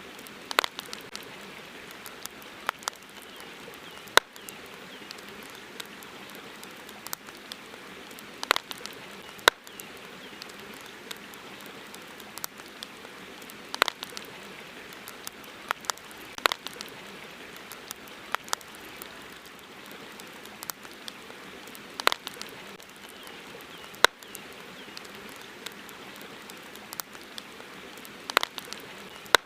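Wood campfire crackling: sharp, irregular pops and snaps every second or so, some loud, over a steady soft hiss.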